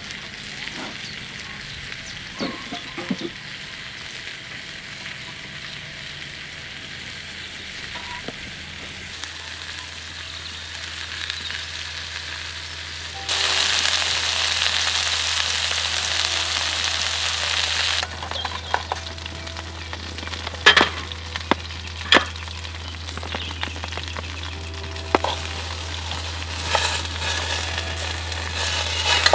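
Steak and vegetables sizzling in small camp pans over a wood fire, a loud steady hiss for about five seconds midway. Later come a series of sharp clicks as metal tongs and the pan knock against a plate while the steak is served.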